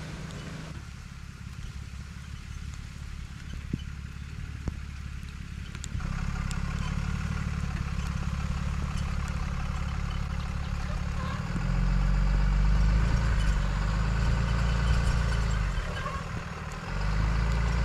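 Heavy pickup truck's engine running as it creeps through snow carrying an 8-ton truck-and-camper load. The engine gets louder about six seconds in and again partway through, then eases off briefly near the end.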